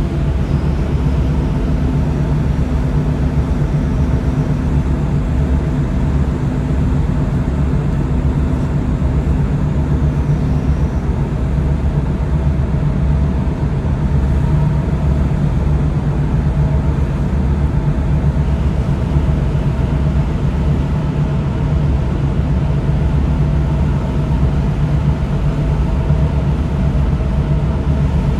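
Tugboat engine running steadily: a constant low hum with a few steady tones over a noisy wash.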